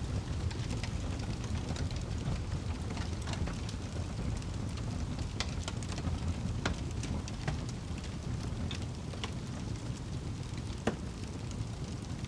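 Wood fire burning in a fireplace: a steady low rumble of flames with scattered sharp crackles and pops, the loudest pop near the end.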